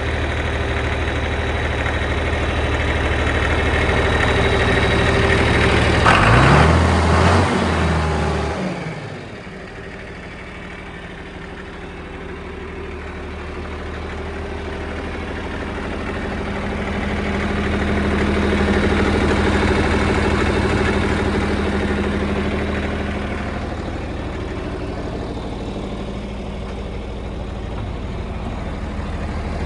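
John Deere 4320 tractor's turbocharged six-cylinder diesel engine running. About six seconds in it is revved up briefly, then it falls back to a steady idle.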